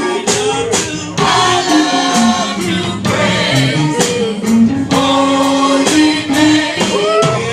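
Live gospel praise music: several voices singing long held notes over a band with a steady beat.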